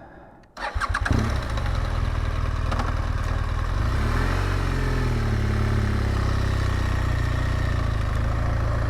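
BMW R1200GS Adventure's boxer-twin engine catching about half a second in, then running steadily at low revs. Its pitch rises and falls once near the middle, as from a brief blip or pulling away.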